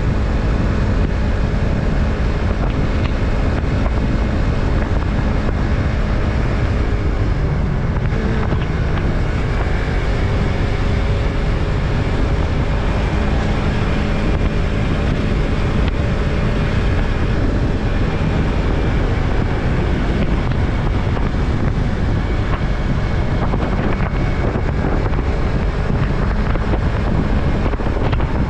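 Yamaha MT-03's 321 cc parallel-twin engine running under way, with heavy wind rumble on the microphone. The engine's pitch shifts a little about a third of the way in and again past the middle.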